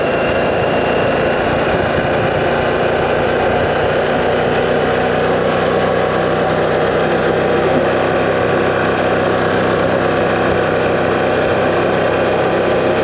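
Harley-Davidson Pan America's V-twin engine running at a steady cruise, mixed with wind rush on a helmet-mounted microphone.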